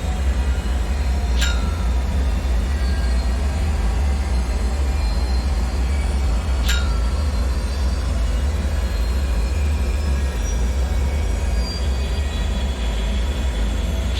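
A steady, deep rumbling drone with a faint hiss over it, the air of an underground bunker. Two short, sharp ringing clinks cut through it, one a little over a second in and another about five seconds later.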